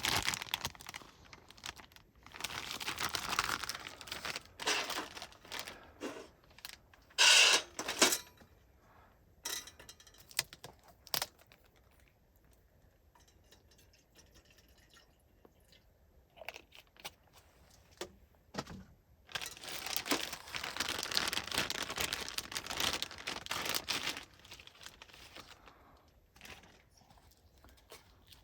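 Crinkling and rustling of something being handled, probably plastic or fabric, in irregular bursts with scattered clicks between. A longer stretch of rustling comes about two-thirds of the way through.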